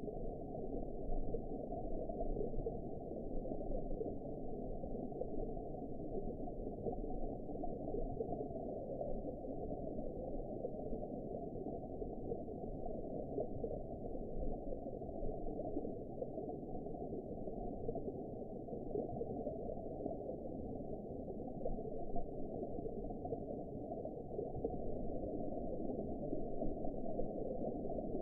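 Steady underwater ambience: an even, muffled low rumble and wash with nothing high-pitched in it and no distinct events.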